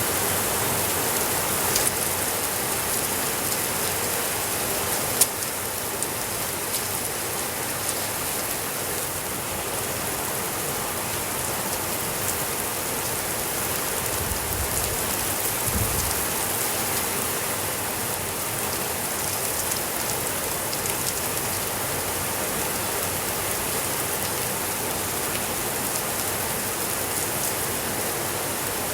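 Steady rainfall, an even hiss of rain on a surface, with a few sharp clicks, the loudest about five seconds in, and a brief low rumble midway.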